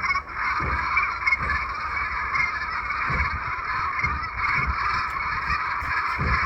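A flock of geese honking continuously, many calls overlapping into a steady chatter.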